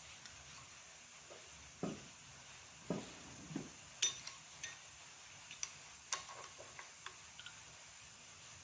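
Metal engine parts clinking and tapping as they are handled during motorcycle engine assembly: a dozen or so irregular sharp clicks and knocks, a few with a duller thud.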